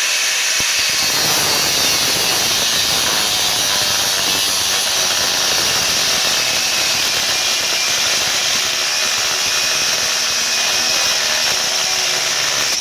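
DeWalt angle grinder with a cut-off wheel running under load, cutting into a steel coil spring: a steady, loud, high-pitched grinding hiss.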